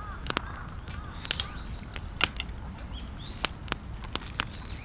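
Wood cooking fire crackling, with irregular sharp pops several times a second and a few faint high bird chirps.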